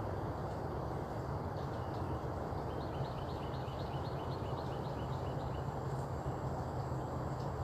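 Steady outdoor background noise with a low hum, over which a bird calls a quick series of high chirps, about three to four a second, from about three seconds in to past five seconds.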